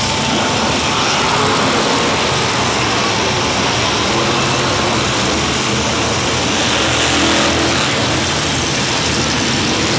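Monster truck engines running loud and steady, a dense wash of engine noise with a low hum underneath.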